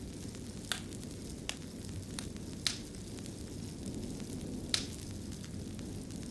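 Wood fire burning in a fireplace: a steady low rush with sharp crackles and pops about every second. The loudest pop comes about three-quarters of the way through.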